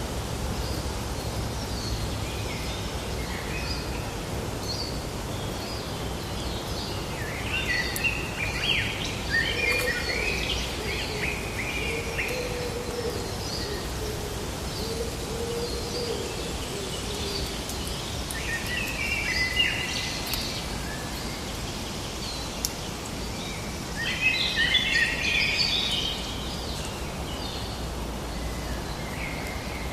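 Forest ambience: several birds chirping and singing over a steady background hiss, with busier bursts of song about a third of the way in, around two-thirds, and again near the end. A lower, wavering call runs underneath for several seconds in the first half.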